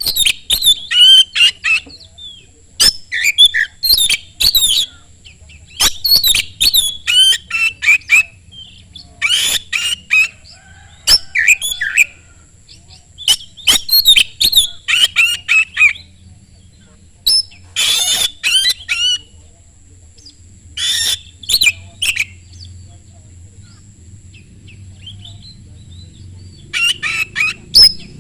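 Oriental magpie-robin (kacer) singing loudly in rapid phrases of sharp, varied chirps and whistles, with short pauses between phrases and a longer lull of a few seconds before the song resumes near the end.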